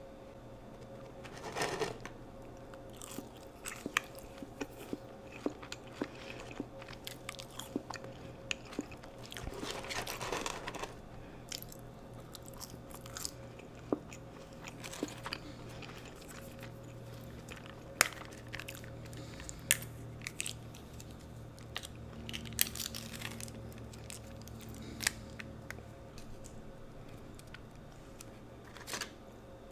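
A person eating McDonald's fast food: repeated crunchy bites and chewing, with scattered sharp crackles and clicks. A faint steady hum runs underneath.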